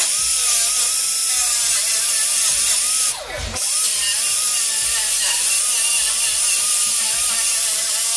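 Handheld power tool running hard while cutting out car body metal, a loud hiss with a wavering whine. About three seconds in it stops briefly, its pitch falling, then starts up again.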